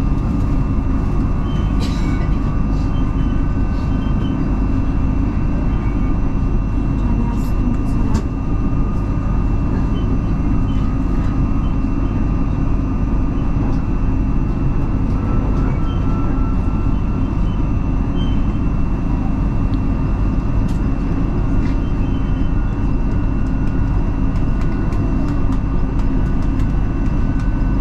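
Electric commuter train running between stations, heard from inside the carriage: a steady rumble of wheels on the rails, with a steady high whine and scattered light clicks.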